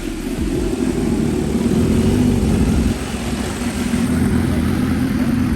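Vehicle engines running loudly and steadily.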